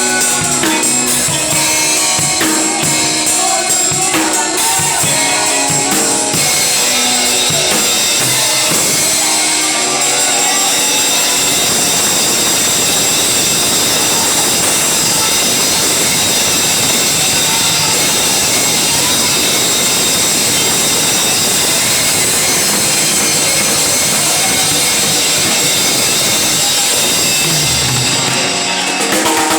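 Loud live band music with a drum kit. About ten seconds in, the distinct notes give way to a dense, steady wash of sound that lasts until near the end.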